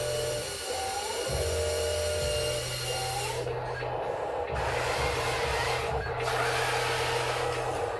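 Machinery running, with a steady whine, short rising whistles that repeat in the first half, and a low hum that cuts in and out.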